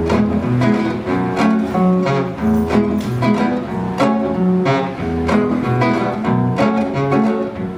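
Instrumental break in a live cumbia song: guitar playing over a bass line, with a steady beat of plucked notes and no singing.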